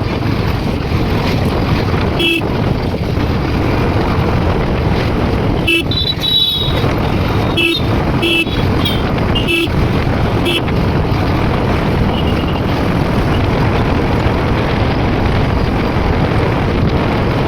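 Steady wind and engine noise of a motorcycle on the move, with short vehicle-horn toots about seven times, most of them between about six and eleven seconds in.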